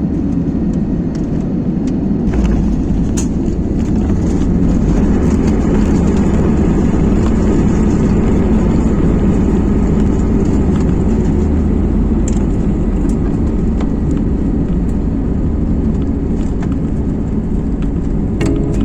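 Steady low rumble of an IndiGo airliner moving on the ground at landing, with a few faint clicks.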